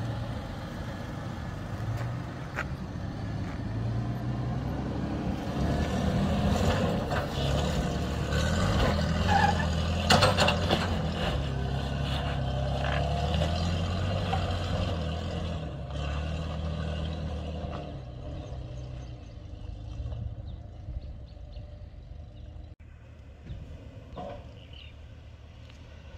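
Off-road 4x4 vehicle's engine running with its revs stepping up and down, loudest in the middle and easing off after about eighteen seconds, with a burst of knocks and clicks around ten seconds in.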